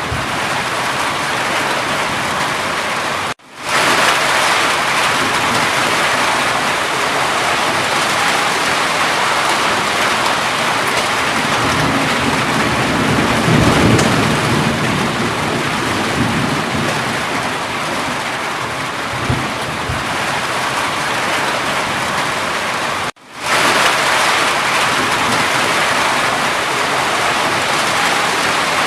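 Steady heavy rain, with a low rumble of thunder swelling and fading around the middle. The sound cuts out for a split second twice, about three seconds in and about 23 seconds in.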